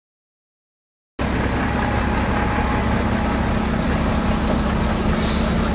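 Truck engine idling steadily, cutting in suddenly about a second in after silence.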